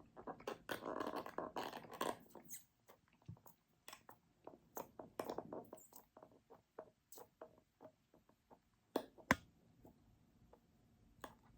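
Plastic milkshake cup, lid and straw being handled, with a run of small clicks and rustles and a sharp tap about nine seconds in.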